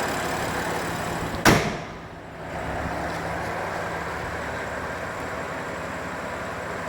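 The hood of a 2015 BMW M4 slammed shut once, a single sharp bang about a second and a half in, over the steady idle of the car's twin-turbo inline-six engine.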